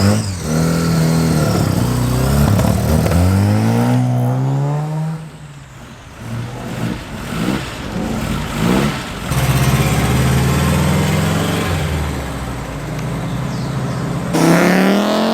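Classic car engines passing one after another, each pulling away and accelerating with its pitch rising through the revs. The sound changes abruptly several times as one car gives way to the next.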